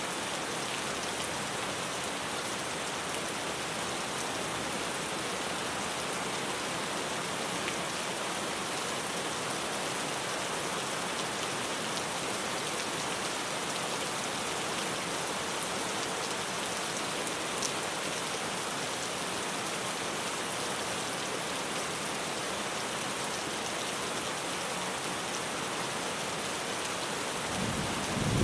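Steady rain drumming on a tin roof, an even hiss of many drops. Near the end a low rumble of thunder begins to build.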